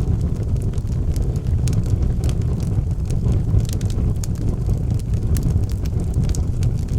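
Wood fire burning in a fireplace: a steady low rumble with frequent irregular sharp crackles and pops from the burning logs.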